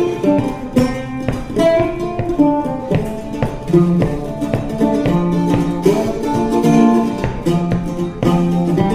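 Mandola played solo: a quick picked melody with strummed chords, plucked notes ringing one after another.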